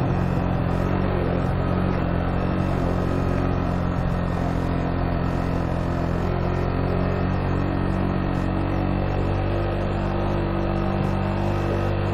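Motorcycle engine running at steady revs while riding, with a constant rush of wind and road noise over it.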